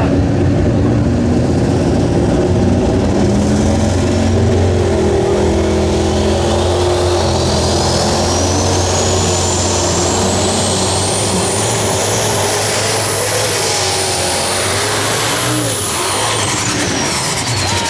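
Unlimited super stock diesel pulling tractor running hard and loud under load. A high turbocharger whine climbs in pitch over several seconds, holds high, then falls away near the end.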